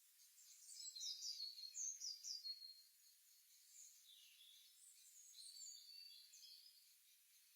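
Songbirds chirping: a quick run of short, high, falling chirps about a second in, then fainter scattered calls over a soft hiss.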